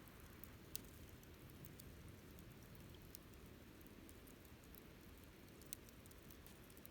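Wood campfire crackling faintly: scattered small ticks and a few sharper pops, about three clear ones, over a low steady background noise.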